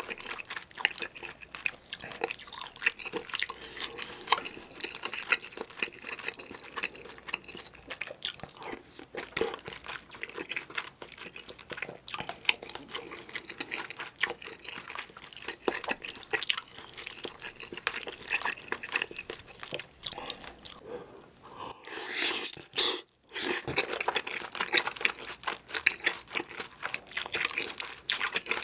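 Close-miked chewing of kimchi stew mixed with rice: wet mouth sounds made of many small irregular clicks. They break off briefly about three quarters of the way through.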